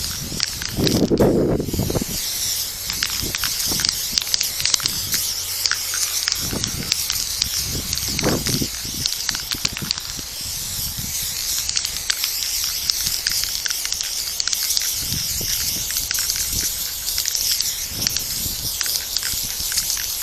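Aerosol spray paint can spraying in long, steady hissing passes, with a couple of brief lower noises about a second in and again around eight seconds.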